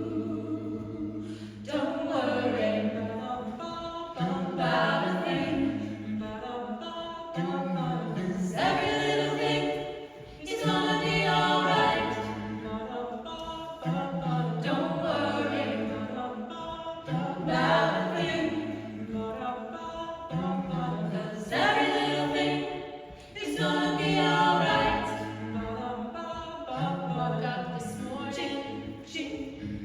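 A cappella choir singing a reggae song in harmony, mixed voices over a sustained low bass line, with no instruments.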